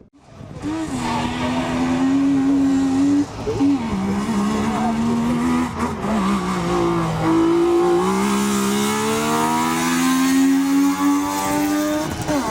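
Rally car engine accelerating hard, its pitch climbing steadily and dropping at upshifts about three and a half and eight seconds in.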